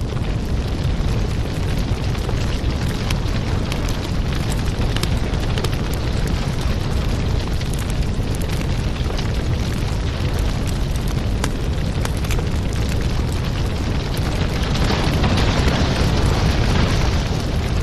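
Fireplace fire burning with a steady low rumble and frequent small crackles and pops. From about fifteen seconds in, a brighter hiss swells up.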